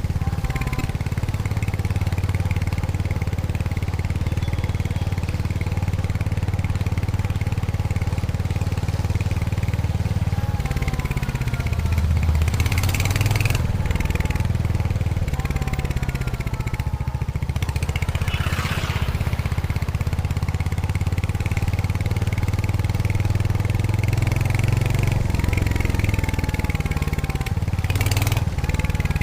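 Royal Enfield Hunter 350's 349 cc single-cylinder engine and exhaust running under way, its deep note rising and falling with the throttle. A few short bursts of hiss come and go.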